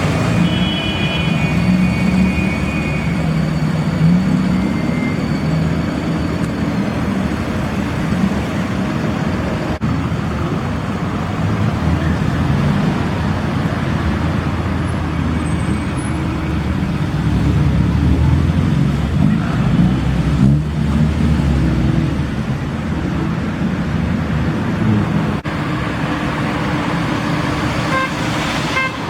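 Classic cars driving past one after another, their engines running loudly over continuous road noise, with a short horn toot in the first few seconds.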